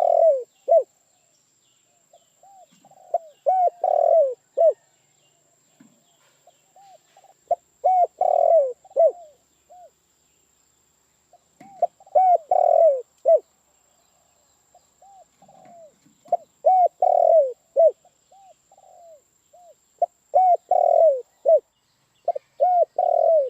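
Spotted dove (tekukur) cooing: a phrase of several short, arched coos, repeated about every four seconds.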